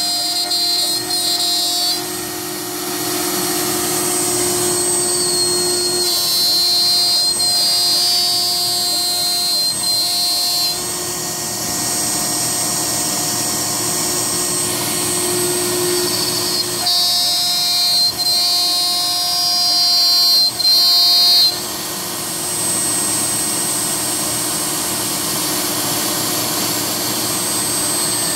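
Home-built CNC router milling one-inch high-density polyethylene: a steady machine run with a high whine, its tone changing every few seconds as the cut goes on.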